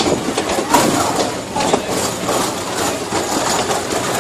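Tractor engine running steadily as it tows a train of barrel carriages, the carriages rattling and clattering irregularly throughout.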